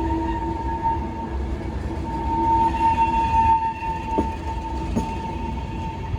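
DSB EB (Siemens Vectron) electric locomotive with IC1 carriages: a steady high whine over a low rumble, with a faint click or two.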